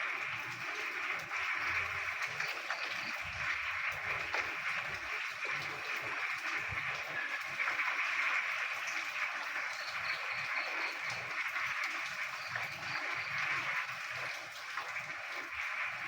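A dense chorus of many frogs calling together, their croaks merging into a steady crackling mass. About ten seconds in, a faster, higher run of repeated notes briefly rises above it.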